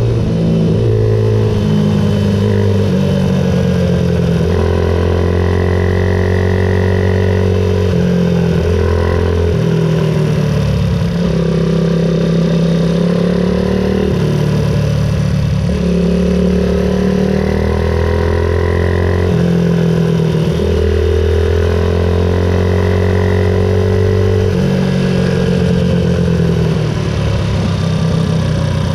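Ohvale 110 minibike's 110cc four-stroke single-cylinder engine revving hard under race load. Its pitch climbs, then drops in sudden steps every few seconds through the gear changes.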